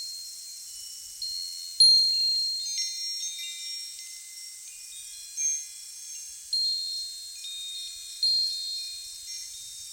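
Wind chimes ringing as they are struck at irregular moments, several high notes overlapping and each fading slowly, over a steady high hiss. The loudest strike comes about two seconds in.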